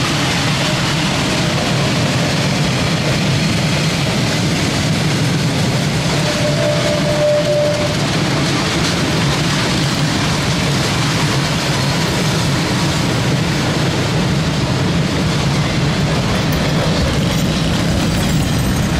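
Long freight train of covered open wagons rolling past a level crossing in a steady, unbroken rumble, with a brief held tone about six seconds in.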